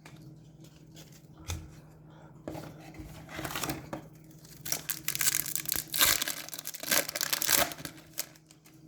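A hockey card pack wrapper being torn open and crinkled by hand: irregular rustling and tearing, heaviest in the middle to later part and stopping shortly before the end.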